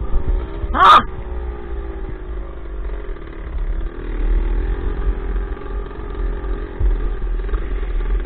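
Dirt bike engine heard from an onboard camera during a ride, its pitch falling as the throttle eases off, then picking up again and wavering, with wind buffeting the microphone. A brief sharp burst, the loudest sound, comes about a second in.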